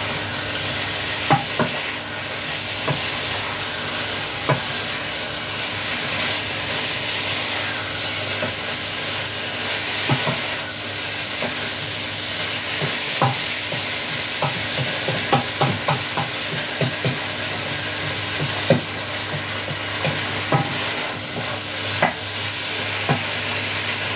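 A chicken stir-fry sizzling steadily in a big pan as it is stirred with a wooden spatula, which knocks against the pan at irregular moments, most often in a quick run around the middle.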